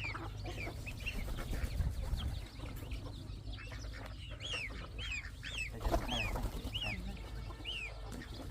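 Chickens calling: a string of short, high, rising-and-falling peeps and clucks, thickest in the middle of the stretch, over a steady low rumble.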